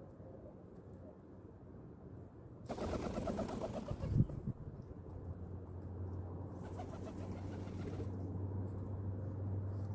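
Pigeons cooing low, with a louder stretch and a sharp thump about four seconds in.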